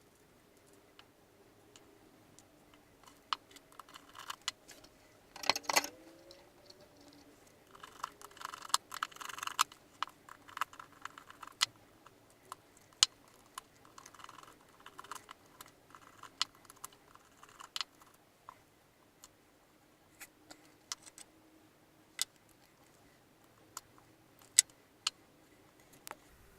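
Scattered sharp clicks and short light rattles of a baitcasting reel and its small metal parts being handled as the reel is taken apart, with a few brief scratchy bursts of parts rubbing and shifting.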